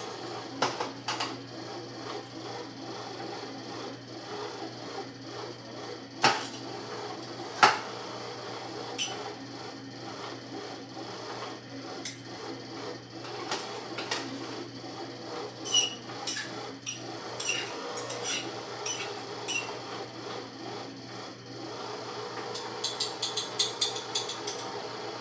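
Kitchen work noises: scattered knocks and clinks over a steady hum, with a quick run of light taps near the end.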